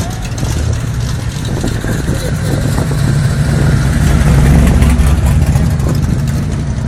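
Car engine rumbling, growing louder to a peak about four to five seconds in and then easing off.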